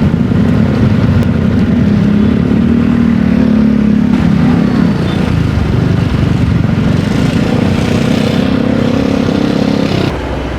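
Motor traffic passing close by: motorcycle and car engines running in a steady drone, whose note shifts about halfway through and eases slightly near the end.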